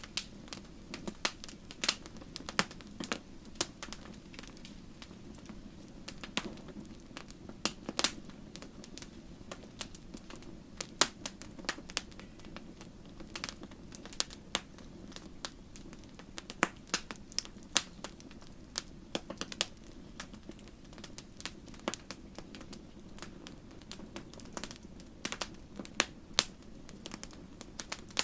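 Campfire of burning wood crackling, with irregular sharp pops and snaps scattered over a steady low rumble of the flames.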